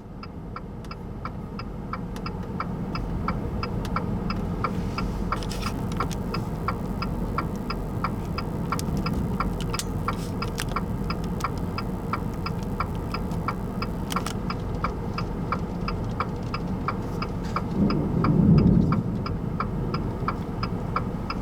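Steady low rumble of a vehicle with a vehicle's flasher relay clicking steadily about twice a second, and a louder swell in the rumble near the end.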